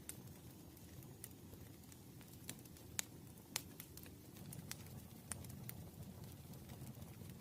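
Campfire burning quietly: a low steady rumble of the flames with irregular sharp crackles and pops of the wood, the loudest two about three seconds in.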